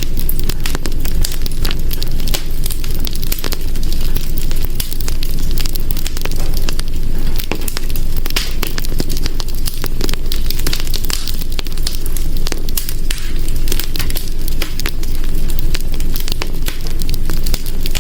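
Wood fire burning in a hearth, with a steady low rumble and dense, continual crackling and popping.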